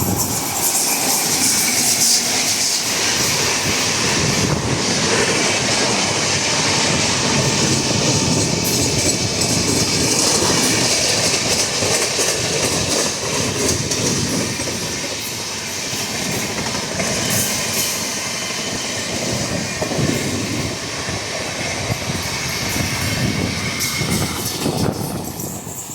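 A WAP-7-hauled express passenger train rolling past, its coaches' wheels running loudly over the rails with a steady rumble and some squealing; the noise drops near the end.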